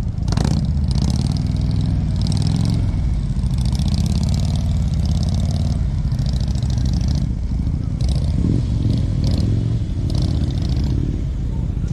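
Motorcycle engine running while under way, its note rising and falling with the throttle, with patches of hiss over it.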